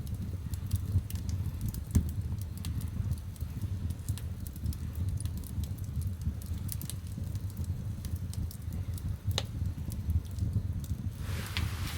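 Firewood burning in the firebox of a wood-fired bath: a steady low rumble of the fire with scattered sharp crackles and pops, one louder pop about nine seconds in. A soft hiss rises near the end.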